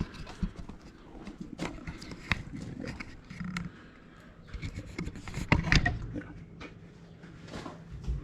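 Handling noise of a camera being set up on a tripod: scattered clicks, knocks and rubbing, with a cluster of sharper knocks about five and a half seconds in.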